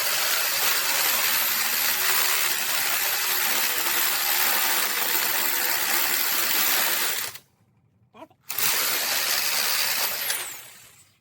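Handheld power tool running at full speed in a long run of about seven seconds, then, after a short pause, a second shorter run that winds down near the end.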